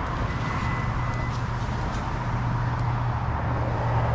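Honda Odyssey minivan running, a steady low hum under an even rushing road noise, with a thin high beep for about a second near the start.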